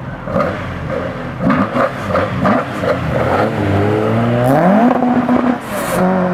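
Classic car engine revved in several quick blips, then accelerating hard with a steadily rising pitch. It drops off briefly near the end and then pulls again.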